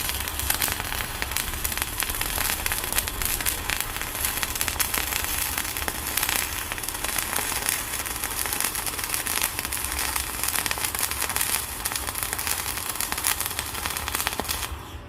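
Electric arc welding on thick steel plate: a continuous dense crackle and sputter of the arc, which stops near the end.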